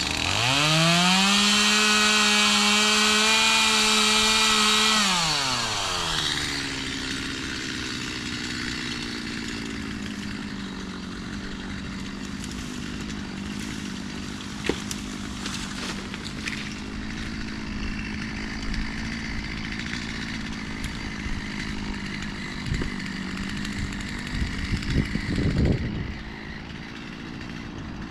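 Two-stroke chainsaw revved to full throttle for about five seconds, then dropping back to a steady idle. Some clicks and a few low knocks come later, while it idles.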